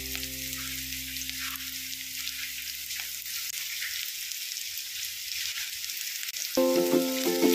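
Onions, green chillies and okra sizzling in hot oil in a pan, a steady frying hiss. Background music fades out early on and starts again loudly about two-thirds of the way in.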